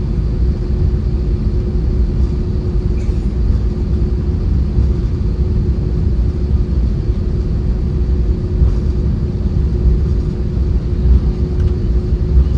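Steady cabin noise inside an Airbus A320: a constant low rumble of the IAE V2500 turbofan engines and airflow, with a steady hum running through it.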